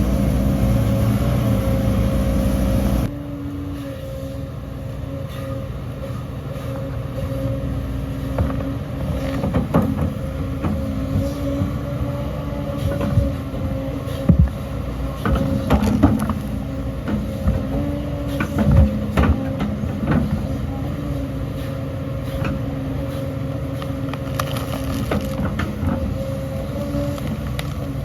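Heavy diesel earthmoving machinery running steadily, with scattered metallic clanks and knocks. The sound changes abruptly about three seconds in.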